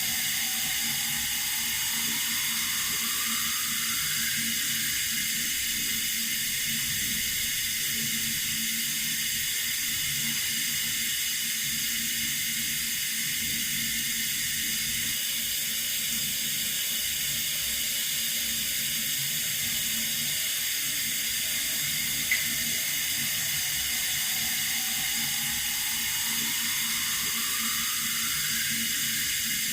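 Water running from a tap in a steady, unbroken hissing rush, with a single brief click about two-thirds of the way through.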